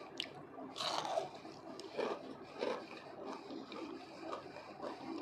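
Close-miked biting and chewing of crispy fried potatoes. A loud crunchy bite comes about a second in, followed by several softer crunches as they are chewed.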